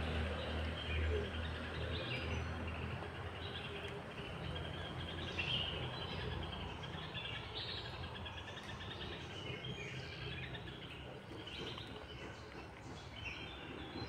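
Birds chirping and calling again and again in short trills, over a steady low outdoor rumble.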